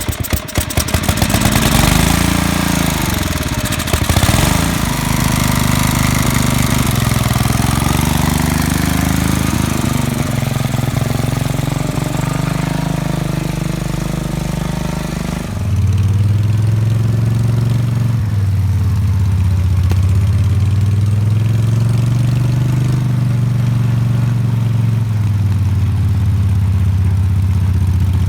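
Garden tractor's small gasoline engine running, its pitch rising and falling a few times in the first seconds. About fifteen seconds in the sound changes abruptly to a steadier, deeper engine drone that slowly rises and falls.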